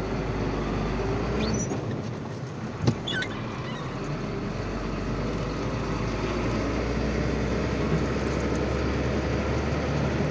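Truck engine running steadily, with a sharp knock about three seconds in and a few brief high squeaks.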